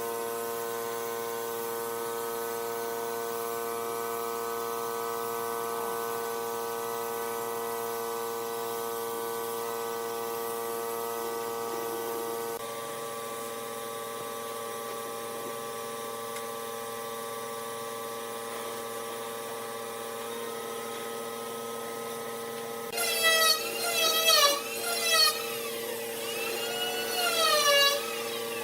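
Electric power tool running steadily with a constant whine. Near the end its pitch bends down and back up several times as it is pushed into the wood.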